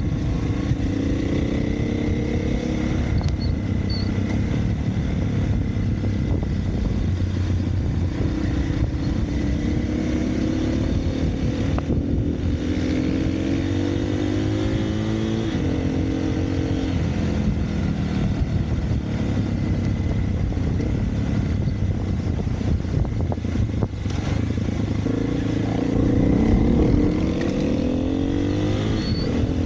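Single-cylinder four-stroke dirt bike engine under way on a trail, revving up and dropping back again and again as the rider works the throttle and shifts. The loudest climb comes near the end, over a continuous rumble of riding noise.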